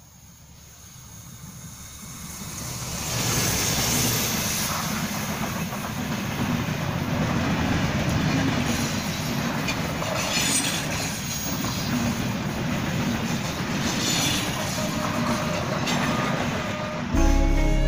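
Chitra Express intercity train running on the rails: it grows louder over the first three seconds, then holds a steady rumble and rattle with the clickety-clack of wheels over rail joints. Music comes in about a second before the end.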